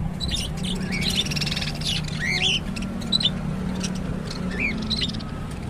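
A flock of caged pet birds such as lovebirds chirping and squawking, many short high calls overlapping, over a steady low hum.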